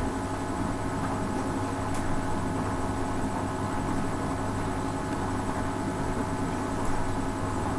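Hoover Ecologic 800 automatic washing machine running on its rinse cycle, a steady motor hum with a light click about two seconds in.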